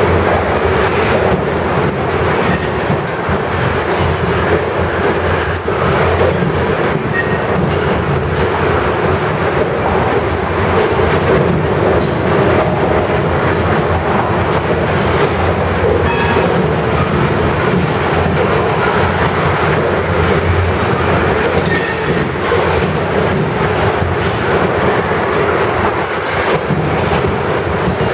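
Covered hopper cars of a CSX freight train rolling past on the near track: a loud, steady rumble and clatter of steel wheels on the rails.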